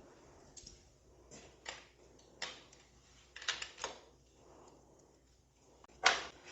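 Scattered light clicks and knocks of hand work on a motorcycle, tools and parts being handled, with a sharper, louder knock near the end.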